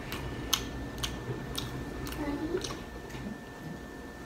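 Close-miked chewing of a soft tortilla wrap filled with buffalo mac and cheese: wet mouth clicks and smacks, roughly two a second, with a brief closed-mouth hum about two seconds in.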